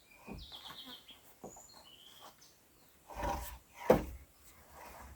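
Short bird chirps in the forest, then a dull thump about three seconds in and a sharp knock just before four seconds, the loudest sound.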